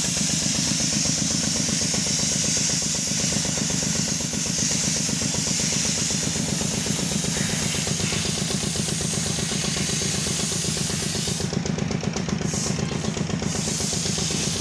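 An engine running steadily at idle, with a fast, even chugging throughout.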